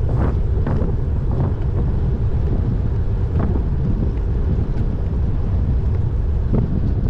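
Wind rushing over the microphone of a moving road bike, a steady low rumble.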